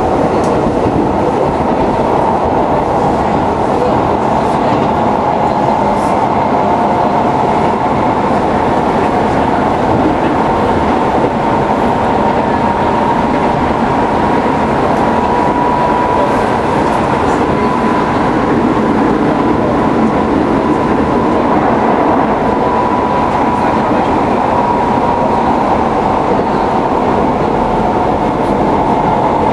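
Keisei 3700-series electric train running at speed, heard from inside the car: a steady rumble of wheels on rail with a faint, drifting traction-motor whine.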